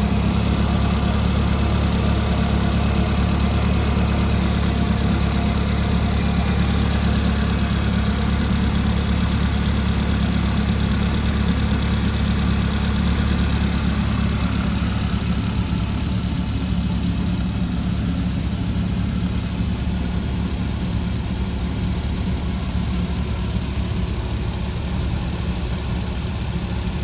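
Subaru Sambar's small four-cylinder engine idling steadily, heard from the engine room. The air conditioning is switched on but the compressor clutch is not engaging, so the idle stays as it is with no clutch click or compressor load. The low rumble eases off a little about halfway through.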